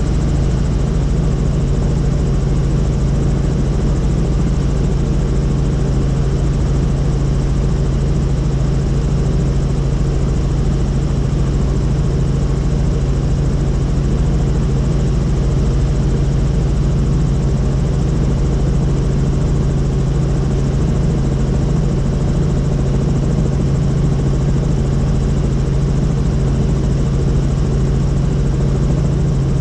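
Helicopter in flight heard from on board: a steady, loud drone of rotor and turbine noise with a strong low hum that does not change.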